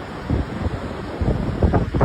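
Wind buffeting the microphone: a rough low rumble that grows louder about a second in.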